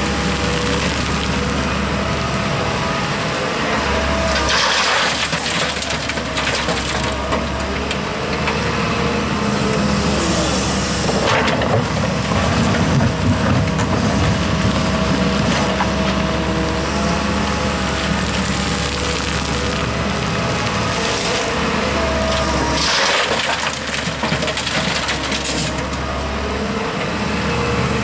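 Diesel engines of heavy earthmoving machinery, excavator and dump truck, running steadily, with short hissing bursts three times.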